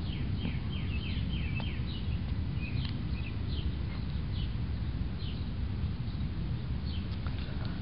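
Birds chirping in the background: short falling notes, several in quick runs in the first second or so, then scattered, over a steady low rumble.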